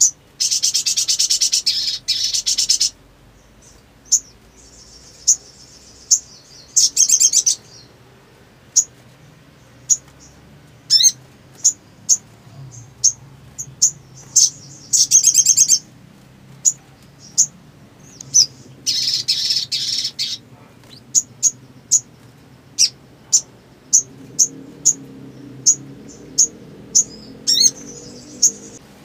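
Little spiderhunter (sogon) calling. It gives many sharp, high single chirps, spaced about a second apart and coming faster near the end, broken by four rapid buzzy trills. The longest trill, of about two and a half seconds, comes at the start.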